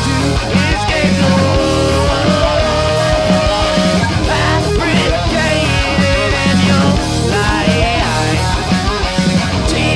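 Loud live punk rock band playing: distorted electric guitars, bass and drums, with a held high note partway through.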